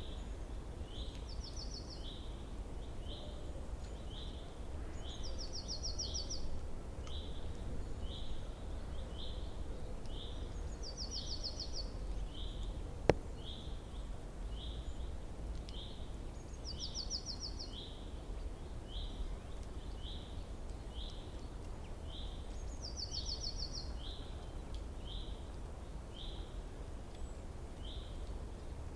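Birdsong: a short high note repeated about once a second, with a fast, higher trill breaking in every five or six seconds, over a steady low rumble. A single sharp click about halfway through.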